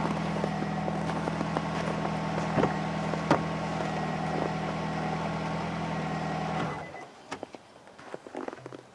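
A motor vehicle engine idling steadily, with two sharp knocks a few seconds in. The engine sound cuts off about seven seconds in, leaving a few scattered light taps.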